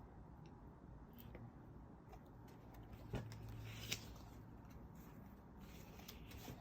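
Near silence with faint handling of craft paper: a sharp click about three seconds in, then a brief rustle about a second later.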